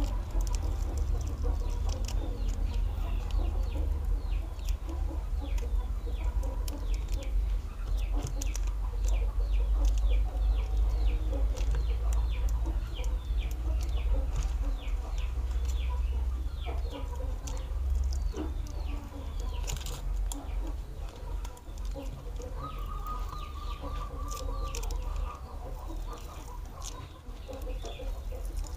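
Birds chirping in quick runs of short, falling high calls, several a second, over a steady low hum, with a few sharp clicks; a thin, high pulsing call comes in briefly near the end.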